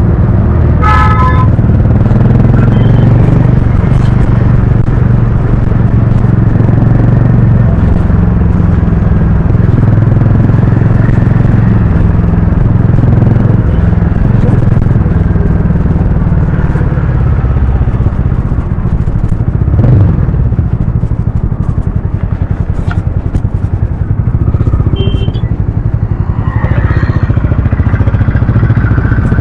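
Harley-Davidson X440's single-cylinder engine and exhaust running loud and steady while the motorcycle is ridden.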